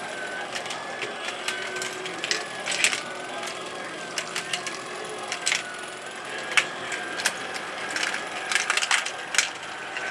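Marbles clicking and clattering at irregular intervals, sometimes in quick clusters, as they run along a motorized ROKR wooden marble run, over a steady, slightly wavering high tone.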